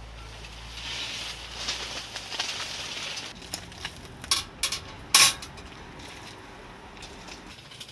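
Rustling, then a handful of sharp clicks and knocks, the loudest a little after five seconds in, like objects being handled and set down.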